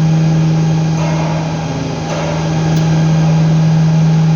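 A steady, loud low electrical or mechanical hum, unchanging throughout, like a machine running continuously.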